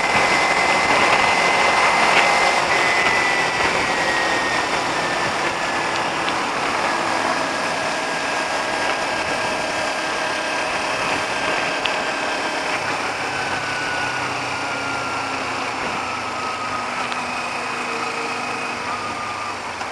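Motorcycle riding along: wind rush on the rider's microphone over the engine's steady whine, which sinks slowly in pitch.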